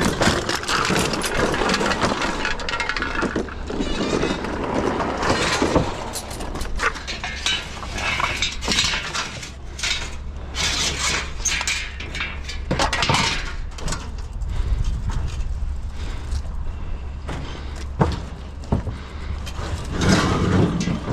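Scrap metal being moved and stacked on a trailer: irregular clanks, knocks and scrapes of metal objects, over a steady low rumble.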